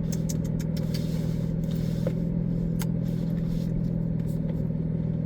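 Nissan 350Z's V6 engine running at a steady cruise: a constant low drone with road noise underneath.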